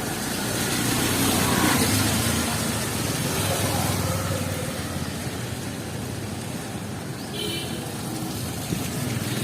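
City street traffic in heavy rain: a motor vehicle passes, swelling to its loudest one to three seconds in, over a steady hiss of rain and wet road. A brief high-pitched tone sounds near the end.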